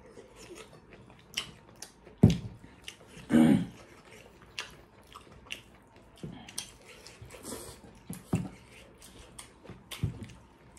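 Close mouth sounds of people eating rice and pork curry by hand: wet chewing, smacking and small clicks, scattered irregularly, with a sharp knock about two seconds in and a short louder burst just after.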